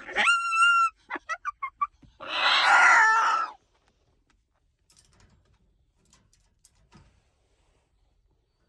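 Moluccan cockatoo calling: a rising whistle, a quick string of about six short chirps, then a loud, harsh screech lasting over a second. Only faint clicks follow.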